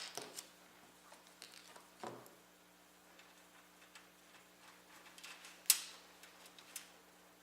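Scattered light clicks and taps of a hand screwdriver working tiny screws, with one sharper click a little before six seconds.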